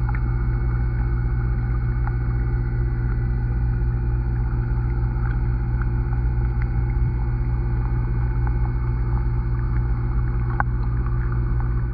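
Underwater sound from a camera submerged in a pond: a steady low drone with a few faint clicks.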